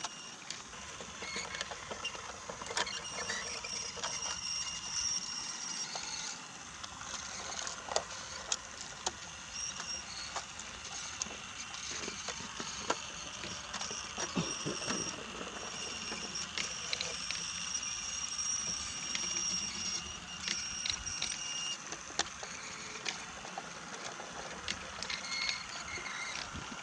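Brio toy train running along wooden track: a high, steady whine that drops out and returns, with scattered clicks and knocks.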